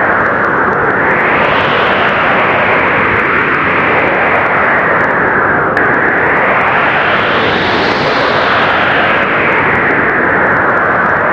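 Blizzard wind blowing hard and steadily, its rush slowly swelling and easing in long gusts, with an abrupt shift about halfway through.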